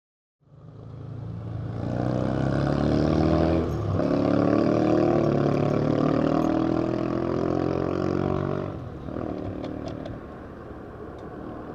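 Yamaha XSR700's parallel-twin engine pulling under throttle, with a brief dip about four seconds in like a gear change, then easing back to a lower, steadier note around nine seconds in.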